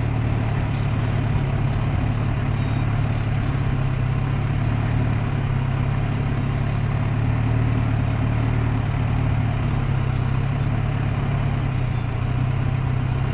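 Motorcycle engine running steadily at low revs, a constant hum with no revving, as the bike is ridden slowly around a tight circle.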